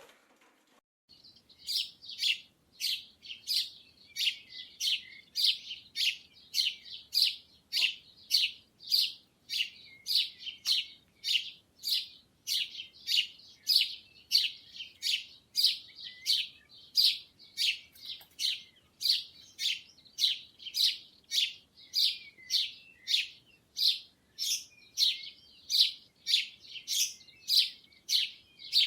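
A bird chirping over and over in a steady rhythm, about two short high chirps a second.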